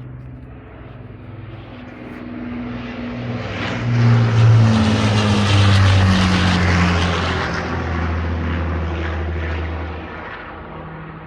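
Avro Lancaster bomber's four Rolls-Royce Merlin piston engines flying past: the drone swells to a peak about five seconds in, then drops in pitch and fades as the aircraft moves away.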